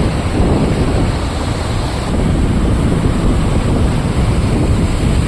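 Duduma Waterfall's falling water: a loud, steady rush of noise.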